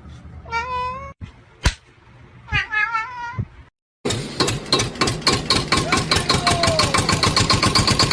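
A cat meowing twice, each meow short and wavering in pitch. From about halfway through, a louder fast, even pulsing sound takes over.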